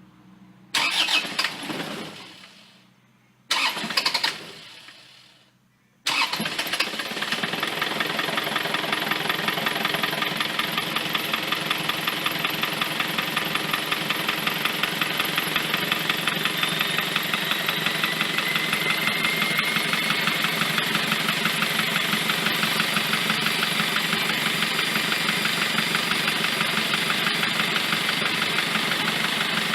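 Isuzu D-Max four-cylinder diesel engine, valve cover off, being started: two short bursts that die away, then about six seconds in it catches and idles steadily with a fast, even clatter from the exposed valvetrain.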